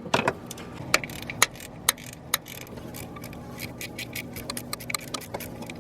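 Hand tools clinking and rattling: a run of irregular light clicks and taps, growing busier in the second half, over a low steady background.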